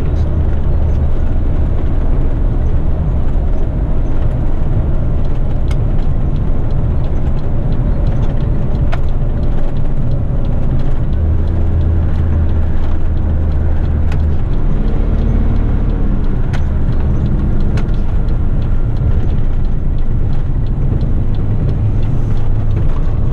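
Heavy rigid truck's diesel engine running steadily on the road, heard from inside the cab, its low drone shifting a few times.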